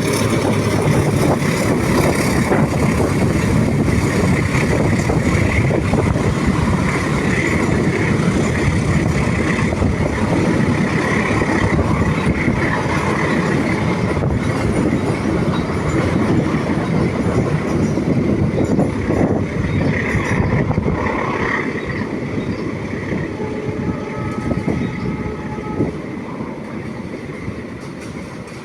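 A train running past on the track, its wheels giving a continuous rumble and clatter with a metallic squeal now and then. It gets gradually quieter over the last few seconds.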